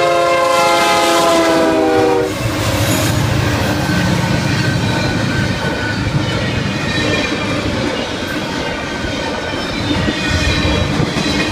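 Diesel freight locomotive's air horn sounding a chord for about two seconds, dropping slightly in pitch as the locomotive passes, then the steady rumble and clatter of the train's locomotives and intermodal cars rolling by.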